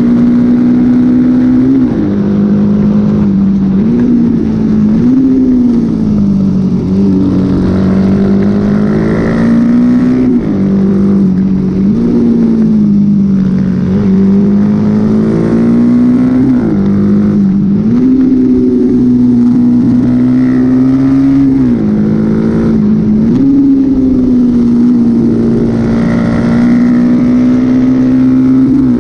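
Honda XL motorcycle engine running hard under race load. Its pitch holds mostly steady, then dips briefly and climbs back up about ten times as the throttle is eased and reopened.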